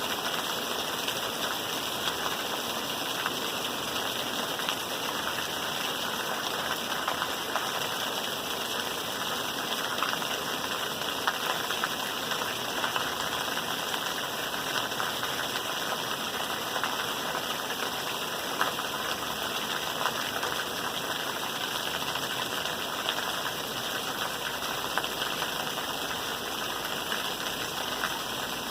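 Steady rain with a dense patter of small drop ticks.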